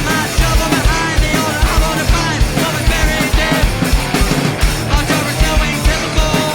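Live punk rock band playing loudly: electric guitars, bass and a drum kit, with the kick drum on a steady driving beat.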